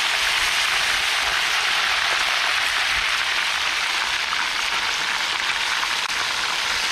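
Fish frying in a pot of hot oil: a steady sizzle with fine crackling.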